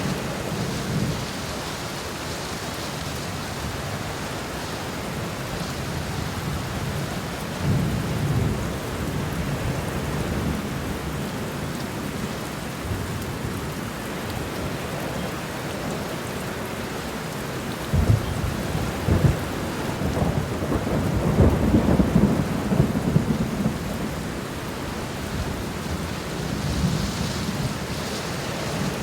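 Steady rain falling, with low rolling thunder: a short rumble about eight seconds in and a longer, louder one from about two-thirds of the way through.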